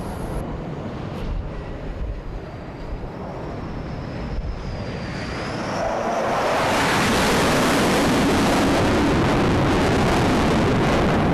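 Jet engines of a carrier aircraft: a faint rising whine at first, then loud jet noise building from about six seconds in and holding steady, with wind rumbling on the microphone.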